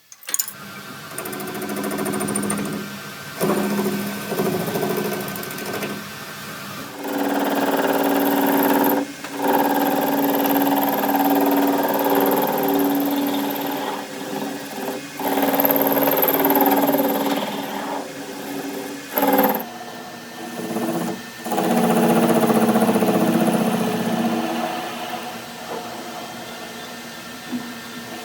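An electric power tool or workshop machine motor running steadily, its load and loudness shifting, with several abrupt breaks.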